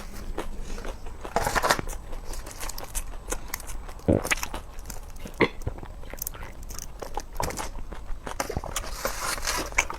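Close-up eating: a person biting and chewing crisp food, with many short crunches and crackles.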